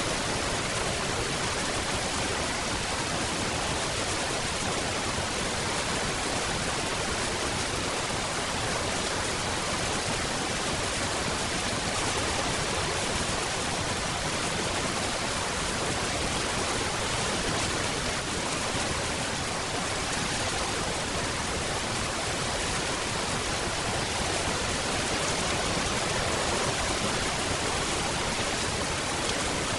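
Steady rain falling: a dense, even hiss with no separate drops standing out and no thunder.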